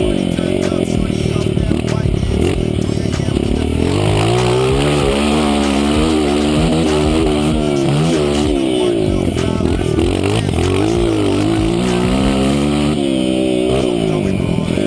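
Honda CRF 230 dirt bike's single-cylinder four-stroke engine being revved hard, its pitch climbing and dropping over and over as the throttle is opened and closed and the rider shifts gears.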